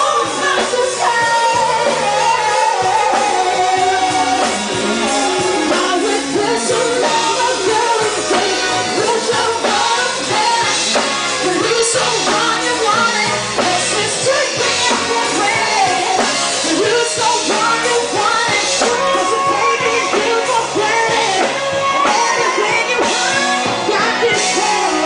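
Rock band playing loudly and continuously, with drums, guitar and a sung melody line.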